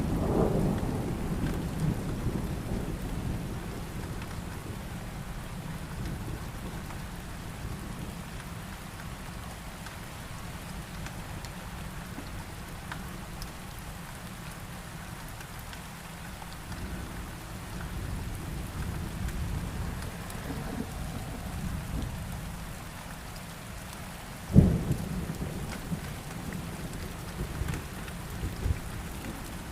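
Steady heavy rain falling in a thunderstorm, with a low rumble of thunder dying away over the first few seconds. About three quarters of the way through comes a sudden loud crack, followed by a few smaller thumps near the end.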